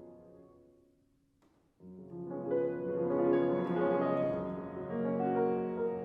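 Piano playing classical music: held notes fade away to a short pause, then a loud, full passage of chords begins about two seconds in.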